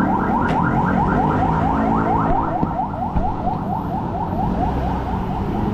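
Fire engine's electronic siren on a fast yelp, a quick rising wail repeating about five times a second, with the truck's engine running underneath. The yelp fades out a little past halfway, leaving the engine rumble.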